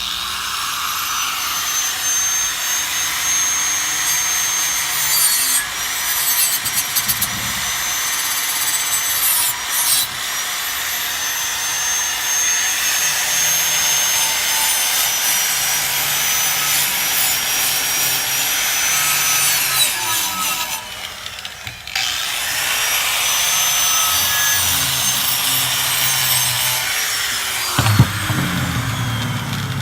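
Handheld rotary power tool scouring rust off an old steel sickle blade: a high whine over loud scraping. The whine sags and recovers several times as the tool is pressed in, stops briefly about two-thirds of the way through, and winds down near the end.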